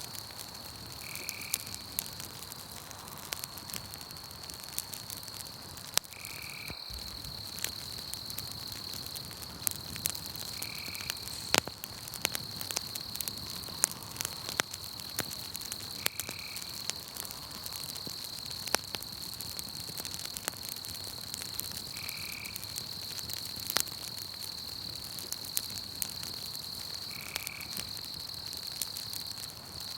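Campfire crackling with scattered sharp pops, over a steady high insect trill from night crickets. A short call repeats about every five seconds.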